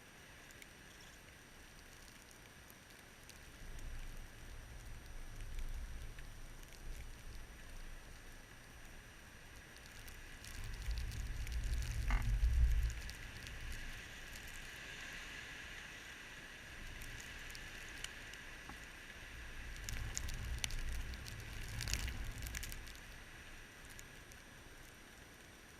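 Blizzard wind blowing in gusts, rumbling on the microphone three times, with a light hiss and scattered ticking and patter.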